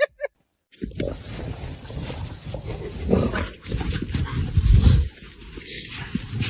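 An animal vocalising over a noisy background, with a loud low surge about five seconds in.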